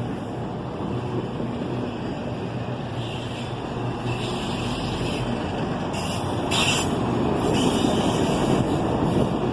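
Empty auto-rack freight cars rolling past on a slowing train: steady wheel-and-rail rumble, with brief squeals a few seconds in and a sharper one past the middle.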